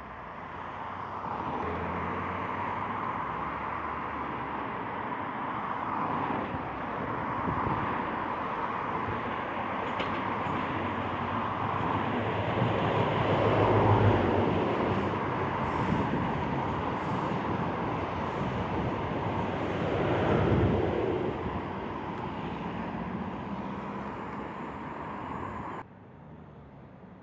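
A train passing, its engine and wheels on the rails growing louder to a peak about halfway through and again a little later, then cutting off abruptly near the end.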